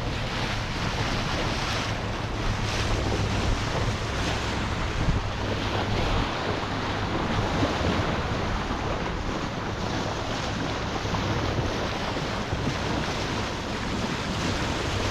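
Sailboat under way on engine power: water rushing past the hull and wind on the microphone over a steady low engine drone.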